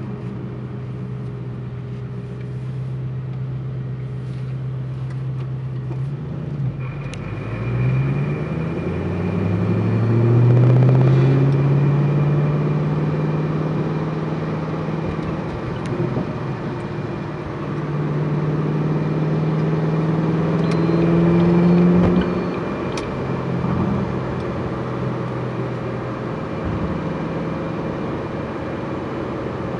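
Ford GT's twin-turbocharged 5.4-litre V8 running steadily, then rising in pitch as it is revved or accelerated and dropping back, twice. A thin steady high whine joins about seven seconds in.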